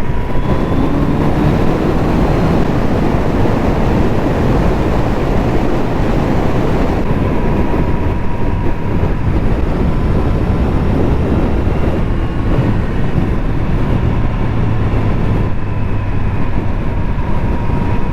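Kawasaki Z900RS inline-four engine running at road speed, mixed with wind rush and road noise. The engine note climbs briefly about a second in.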